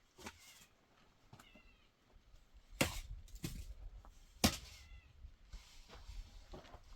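A cat meowing several times in short, high calls. Two sharp knocks, louder than the meows, come about three seconds in and again a second and a half later.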